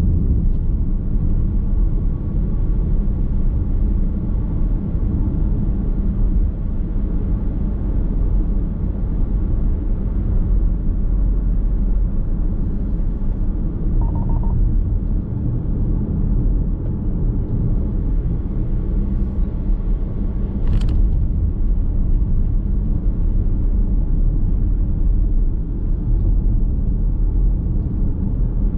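Steady low road and engine rumble of a car driving, heard from inside the cabin, with a short beep about fourteen seconds in and a single sharp click around twenty-one seconds.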